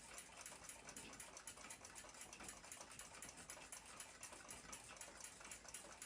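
Faint, rapid, even ticking of a ship's clock platform escapement, its balance wheel running.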